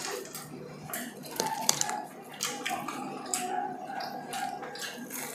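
Close-up eating sounds: chewing and wet mouth smacks, with irregular small clicks.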